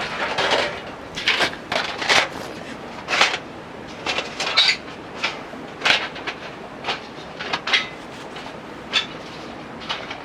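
A series of sharp, irregularly spaced knocks and clacks, as of hard objects being handled and set down.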